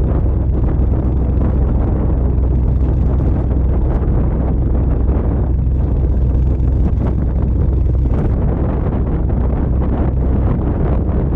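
Exhaust of a 2020 Audi RSQ8's twin-turbo V8 with all three resonators deleted, running steadily with a deep low drone and no clear revving.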